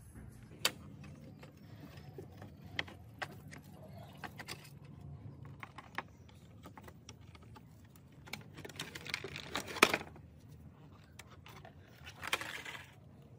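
Scattered light clicks and clinks of small hard parts being handled, with a couple of short scraping rustles.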